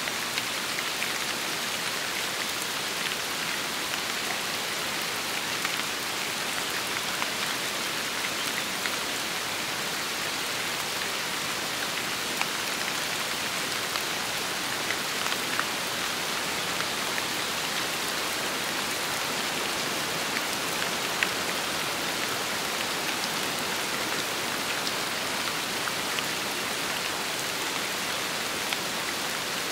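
Steady rain falling in an even hiss, with scattered individual drops ticking through it.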